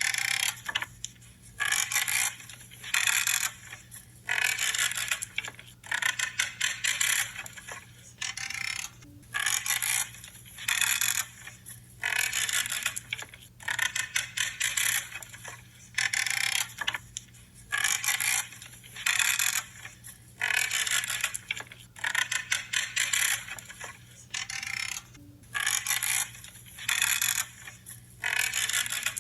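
Pruning shears cutting through branches: a crackly, creaking crunch about half a second long with each cut, repeated roughly once a second.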